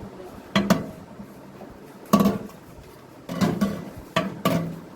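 Microwave oven accessory plates and racks knocking and clinking as they are handled, several sharp knocks with a short ring.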